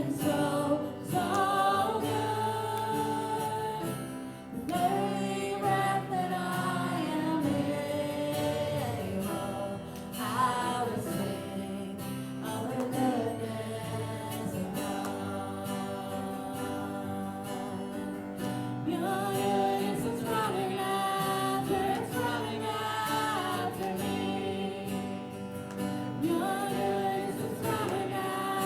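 Gospel music: voices singing together over guitar accompaniment, in long held sung phrases.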